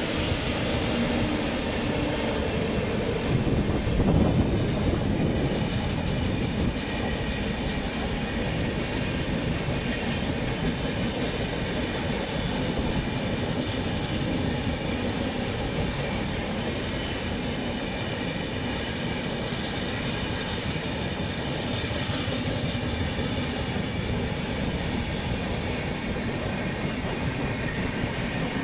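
Train running at speed: a steady rumble of wheels on rails with a clickety-clack over the rail joints, a little louder about four seconds in.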